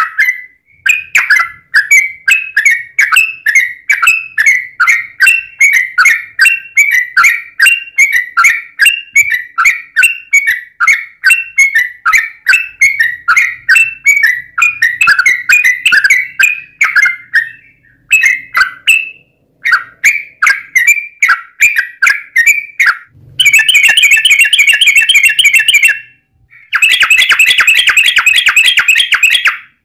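Yellow-vented bulbul (trucukan) singing: quick bubbly chirps repeated about twice a second, then near the end two long, loud, fast rattling trills (the 'ropel').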